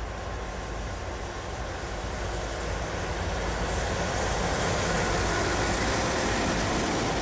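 Diesel freight train drawing near, led by a GE Dash 9-40CW and an EMD SD60I locomotive: engine rumble and rolling noise grow louder over the first few seconds, then hold steady.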